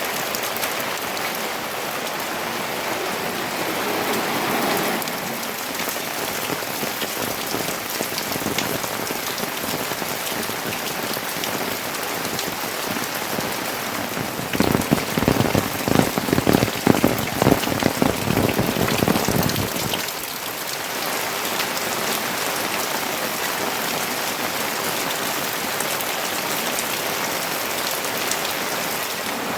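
Steady rain falling, with a louder stretch of close, heavy drops pattering for about five seconds around the middle.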